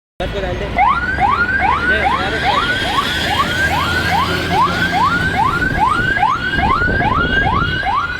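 Electronic siren-style novelty horn on a motorbike, repeating a quick rising whoop about two and a half times a second, over a low rumble.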